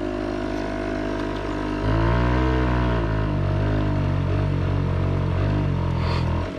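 Small moped engine running, then revving up and down under hard throttle from about two seconds in, ending abruptly near the end.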